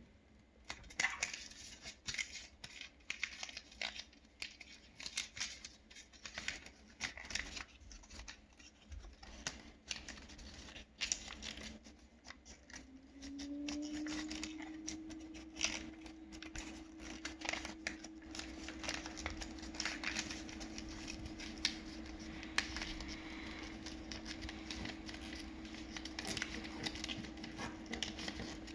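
Sheet of paper being handled and folded, with repeated rustling and crinkling and sharp creasing clicks. A steady low hum starts about halfway in, rising briefly in pitch before it settles.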